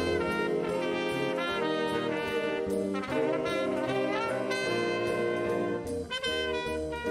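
A student band playing music, with a horn section carrying held notes over a steady rhythm.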